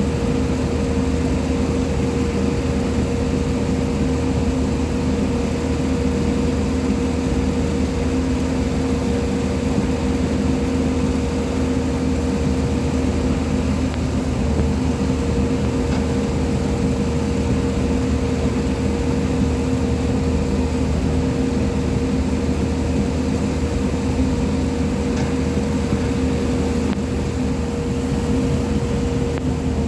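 JCB 215 excavator's diesel engine running steadily, with a constant low hum and a steady higher whine throughout.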